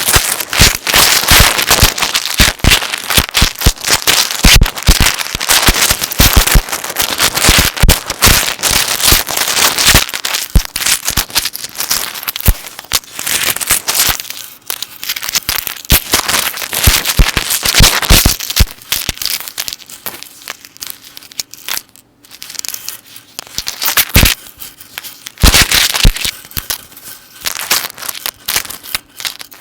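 Metal necklace chains handled and shaken close to the microphone, clinking and rattling densely. About halfway the clinks thin out into scattered clicks, with a couple of short, busier bursts near the end.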